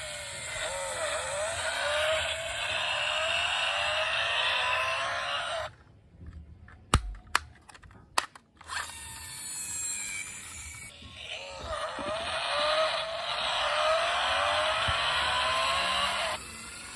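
Toy car motor whirring, its pitch sweeping up again and again, in two long stretches with a pause of about three seconds between them. A few sharp clicks fall in the pause.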